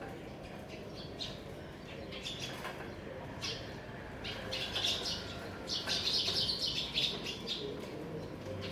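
Birds chirping in quick short calls, thickest and loudest from about five to seven and a half seconds in.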